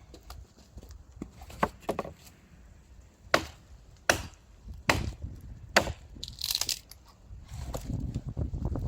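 Wood being chopped: about six sharp, hard strikes spread over four seconds, with a short hiss in between and low handling noise near the end.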